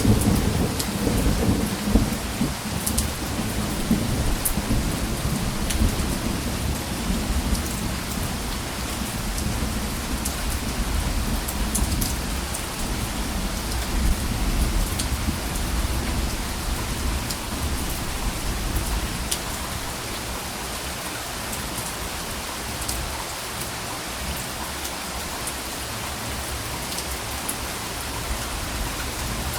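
Steady rain falling, with individual drops pattering, under a low rolling rumble of distant thunder. The thunder is strongest at the start and dies away about two-thirds of the way through, leaving only the rain.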